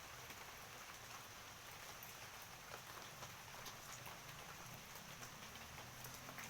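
Rain falling steadily: a faint even hiss with scattered individual drops ticking on surfaces.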